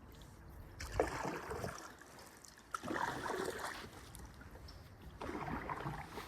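Paddle strokes in water from a canoe: three swishing pulls about two seconds apart, each starting with a sharp splash as the blade goes in.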